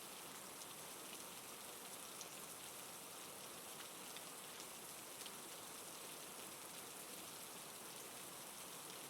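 Steady rainfall: a hiss of rain with faint scattered drops pattering on a surface.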